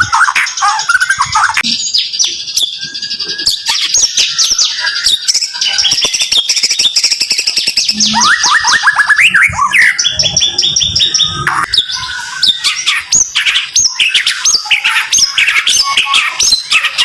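White-rumped shama (murai batu) singing loud, rapid-fire strings of short, sharp repeated notes, the close 'tembakan' song, with hardly a pause.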